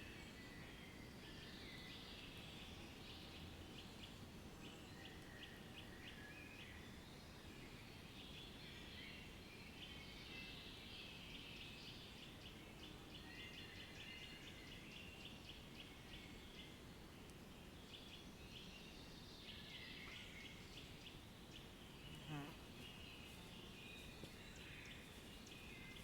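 Faint natural outdoor ambience: many small birds chirping and trilling over a steady low background hiss, with one brief louder call about 22 seconds in.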